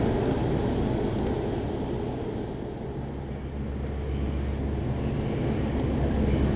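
Aircraft engines rumbling steadily, muffled through the glass, fading a little in the middle and building again near the end.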